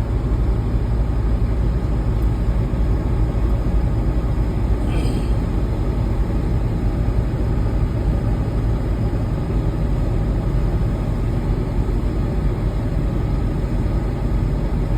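Semi truck engine and road noise heard from inside the cab, a steady low drone while driving slowly.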